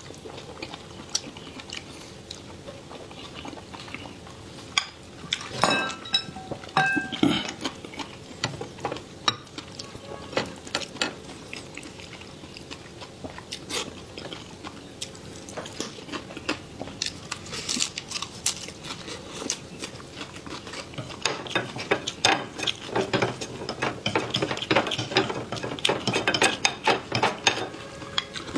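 A person eating: utensils clicking against dishes, with biting and chewing sounds. The clicks come thicker over the last several seconds.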